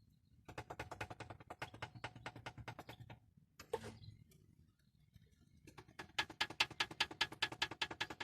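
Ford Explorer OHV engine running, with a rapid, even metallic knocking that comes in two spells of about three seconds each over the low hum of the engine: piston knock in the cylinders.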